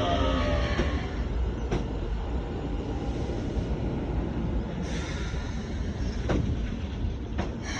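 Keikyu electric train rolling slowly at the platform, a low rumble easing off as it comes to a stop, with a few sharp clicks from the running gear.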